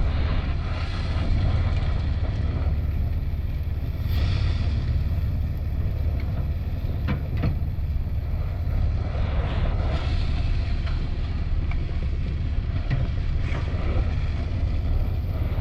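Wind buffeting the microphone: a steady, loud low rumble with a few faint clicks.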